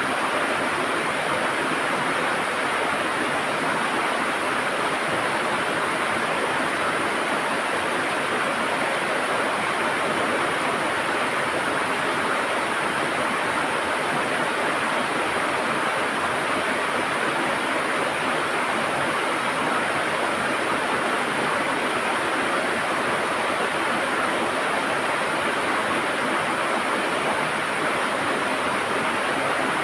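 River water flowing and gurgling, a steady, unbroken rush.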